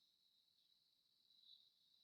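Near silence, with only a faint steady high-pitched hiss.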